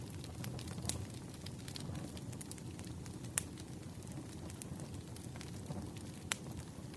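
Firewood burning: a wood fire crackling, with irregular sharp pops over a steady low background. The two loudest pops come about three and a half and six seconds in.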